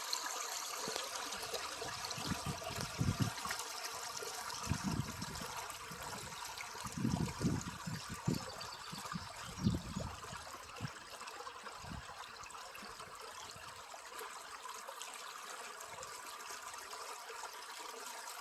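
Small stream trickling and running steadily over rocks. A few brief low rumbles on the microphone come through in the middle.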